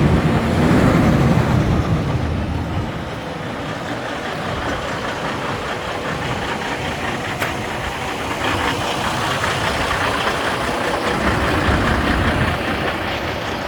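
2011 Freightliner Coronado truck tractor's diesel engine running. Its deep engine note is strongest for the first two seconds or so, then settles into a steady, noisier run.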